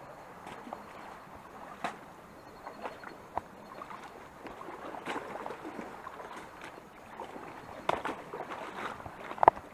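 Water sloshing and splashing around legs wading up a shallow, rocky stream, with scattered knocks and clicks from footing on the rocks, the sharpest near the end.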